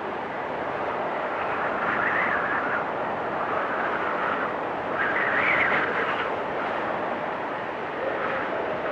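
Storm wind blowing in gusts, a steady rushing with a high whistling edge that swells about two seconds in and again more strongly around the middle.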